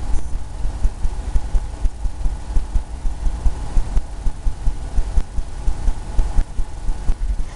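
Rhythmic low thumps, about three a second, of a brush dabbing and scrubbing oil paint onto a stretched canvas, the canvas sounding like a drum skin.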